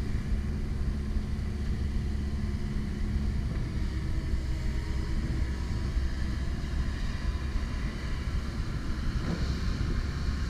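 Komatsu PC170LC-10 excavator's diesel engine running steadily under work, a constant low rumble with faint steady tones above it.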